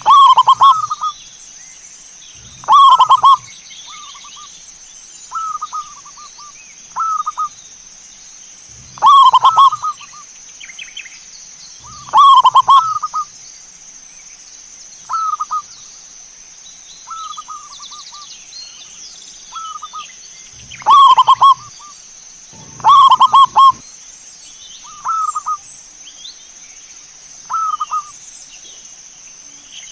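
Zebra dove (perkutut) cooing, repeated phrases every couple of seconds, some loud and some fainter in between. A steady high-pitched tone runs underneath.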